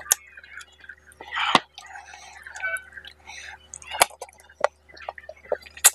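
Close-miked eating of curry and rice by hand: chewing with several sharp, wet mouth smacks a second or two apart.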